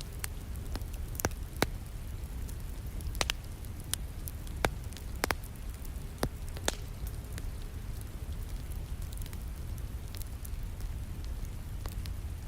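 Wood fire crackling, with irregular sharp pops, most of them in the first half, over a steady hiss of falling rain.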